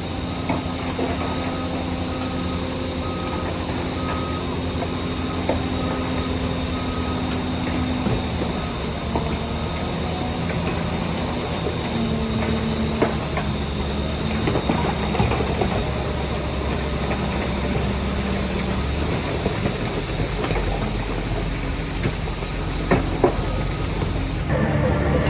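Shantui DH17C3 bulldozer working: its diesel engine runs steadily under load, with scattered metallic clanks and squeaks from the crawler tracks. The sound changes abruptly shortly before the end.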